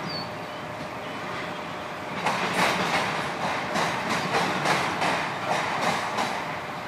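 Freight train of autorack cars rolling past steadily. About two seconds in the wheels start clacking over the rail joints, a run of sharp clacks a few per second, with a brief faint high squeal near the start.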